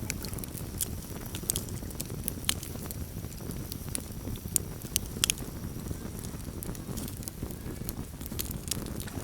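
Campfire burning, with irregular sharp pops and snaps of the wood over a steady low rumble of the flames.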